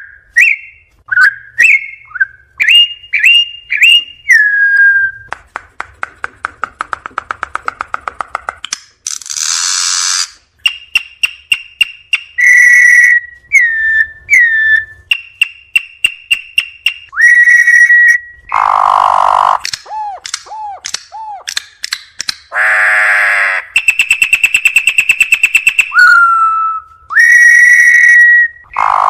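Campo troupial (corrupião) singing: loud, clear whistled phrases broken up by a fast dry rattle and several harsh, raspy bursts.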